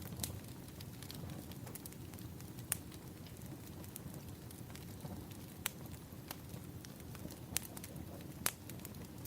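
Burning firewood crackling: a steady low rumble of the fire with sharp, irregular pops every second or two.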